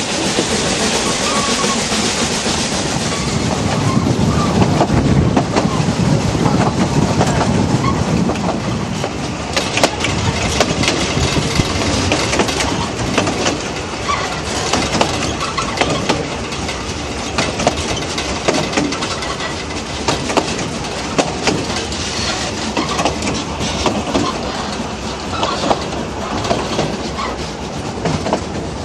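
Narrow-gauge steam train running, heard from an open-sided carriage: a steady rumble of wheels on rail with irregular clicks and clatter from the track joints, heaviest a few seconds in.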